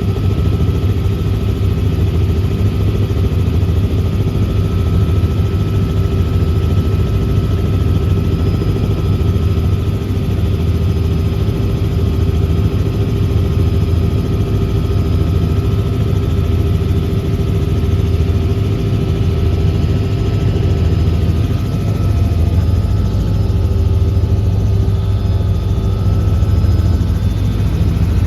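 Helicopter in flight, heard from the cabin: a loud, steady drone of rotor and engine with an even low beat from the rotor blades and a thin steady whine above it.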